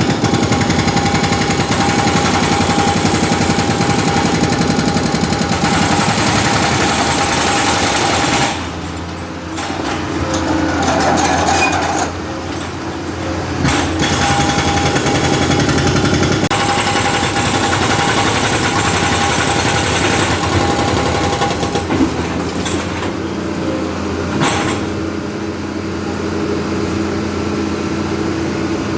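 Hydraulic breaker, a big jackhammer on a machine's hydraulic arm, pounding rapidly into a concrete road, with a steady whine underneath. The hammering eases off briefly about eight seconds in and again around twelve seconds, then carries on.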